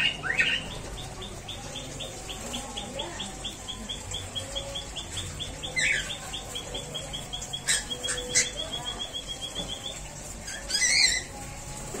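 Bird calls: a long, quick run of short high notes, about five a second, with a few louder slurred calls near the start, about six seconds in and near the end.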